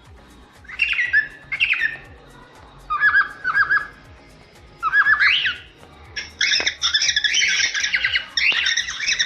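Cockatiels calling: short, rising whistled chirps in separate bursts a second or two apart, then a continuous harsh squawking chatter from about six seconds in.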